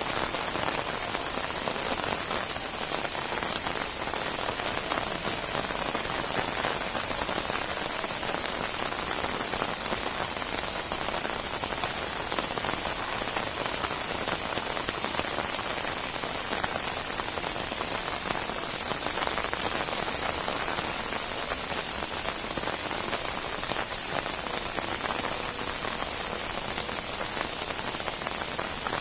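Steady rain pattering on a surface, a dense even hiss with fine crackling drops throughout.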